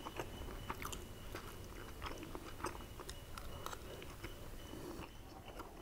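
Faint chewing: soft, scattered wet clicks and smacks of a person eating a mouthful of biryani rice.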